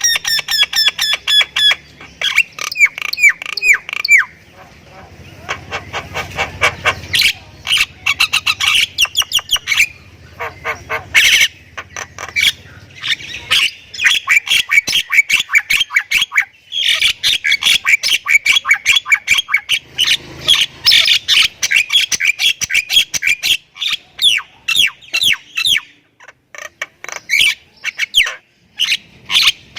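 A myna (jalak kebo) in full song: nearly nonstop fast runs of sharp clicks and harsh chattering notes, mixed with clear whistled phrases.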